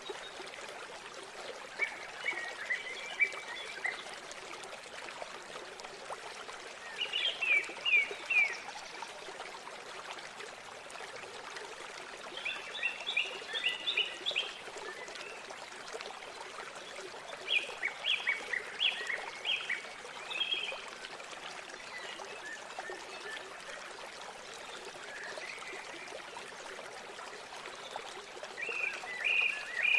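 River water flowing in a steady rush, with a songbird calling in short bouts of quick chirping notes about five times, each bout a second or two long.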